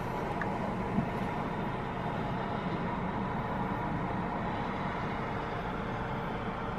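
Heavy diesel engine noise running steadily, a constant drone with no rise or fall, and a small click about a second in.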